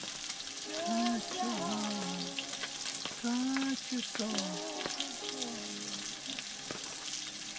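Food sizzling and crackling in a hot pan: a steady hiss dotted with fine pops.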